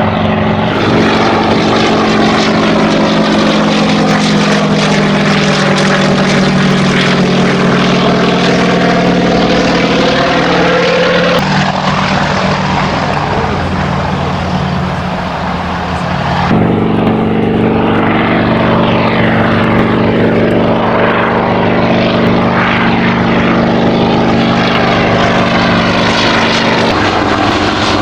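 Sikorsky S-58 helicopter running: a steady engine and rotor drone with a hollow, sweeping tone as the aircraft moves. The sound changes abruptly about eleven and sixteen seconds in.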